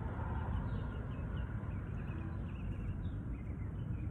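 Birds chirping in short, quick calls over a steady low outdoor background rumble.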